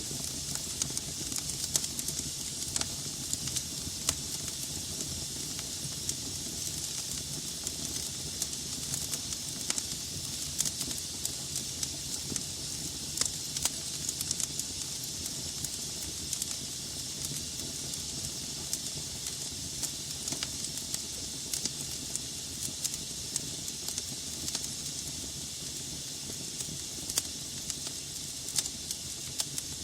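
Wood logs burning in a fireplace: a steady hiss with frequent irregular crackles and pops.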